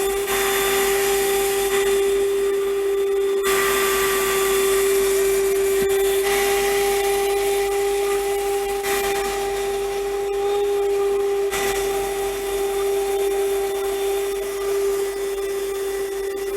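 A 120 W 12-volt handheld car vacuum cleaner running with its thick hose attached, sucking up debris. It gives a steady motor whine over rushing air, and the air noise shifts every few seconds as the nozzle moves.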